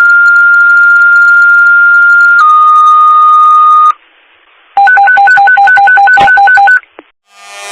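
Fire dispatch paging tones over a radio scanner: one long steady tone that steps down to a second, slightly lower tone, then after a short pause a rapid high-low beeping alert.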